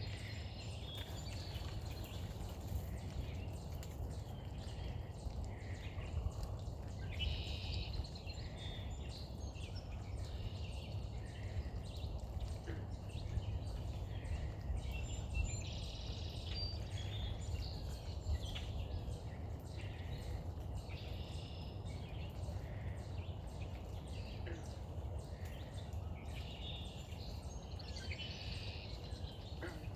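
Steady low outdoor rumble with short, high-pitched bird chirps and peeps coming again and again throughout.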